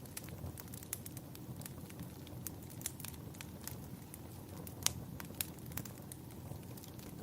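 Wood fire in a fireplace crackling: irregular sharp pops and snaps, the loudest just under five seconds in, over a steady low rumble.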